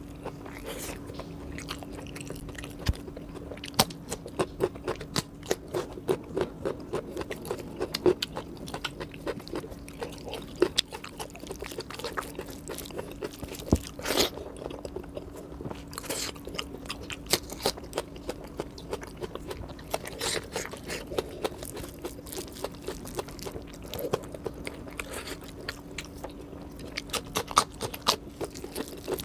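Close-miked chewing and crunching of fried chicken lollipops and rice eaten by hand, with many small crackles and wet mouth clicks and a few louder crunches. A steady low hum runs underneath.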